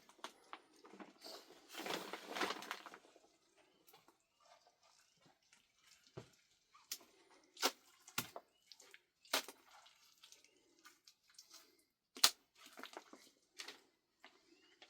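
Scattered light knocks and clatters with a brief rustling stretch about two seconds in; one sharp knock about twelve seconds in is the loudest.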